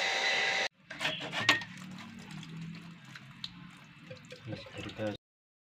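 Water running and splashing from the newly fitted pump's pipe, with a couple of sharp knocks about a second in; it cuts off suddenly near the end. Before that, in the first moment, a steady electric pump whine.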